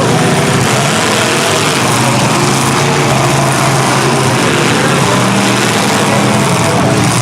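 Several demolition-derby trucks' and SUVs' engines running and revving at once, a loud steady din with pitches shifting up and down.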